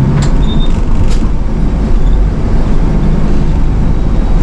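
City bus on the move, its engine and road noise rumbling steadily, with a couple of brief clicks in the first second.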